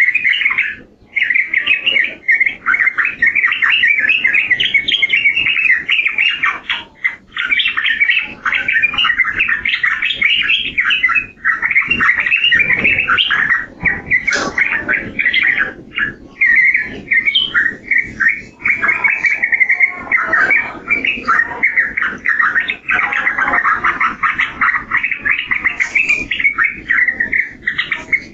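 Yellow-vented bulbul (trucukan) singing continuously in rapid, chattering, bubbling phrases, with only brief pauses about a second in and around seven seconds in.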